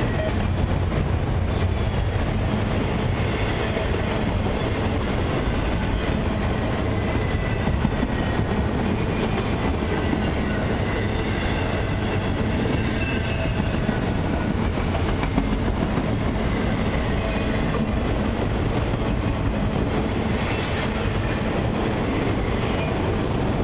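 Autorack freight cars rolling past: a steady rumble of steel wheels on rail, with faint wheel squeal now and then.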